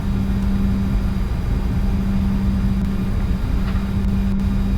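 Steady cockpit noise of a Bombardier Challenger 605 holding on the runway with its GE CF34-3B turbofans at idle: a constant low hum with a steady droning tone through it.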